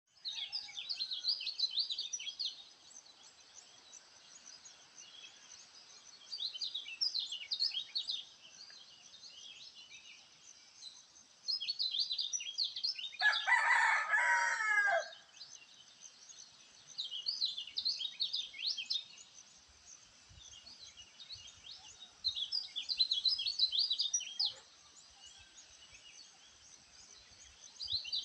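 A songbird repeats a short phrase of quick, high, chirping notes for about two seconds at a time, roughly every five seconds. About halfway through, a rooster crows once, louder and lower than the songbird, for about two seconds.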